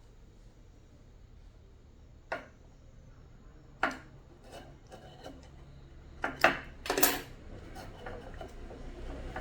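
Small hard objects being handled, giving a handful of sharp clinks and knocks: spaced apart at first, then a quick, louder cluster a little past halfway, over a faint low hum.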